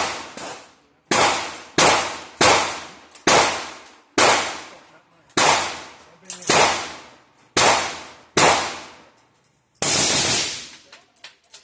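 A string of about ten gunshots, each a sharp crack with a short ringing tail, fired roughly one every second or less with a slightly longer pause before the last.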